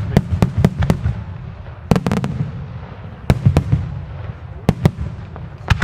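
Fireworks display: aerial shells and salutes bursting in quick succession, a string of sharp bangs over a continuous low rumble, with dense clusters about two seconds in and near the end.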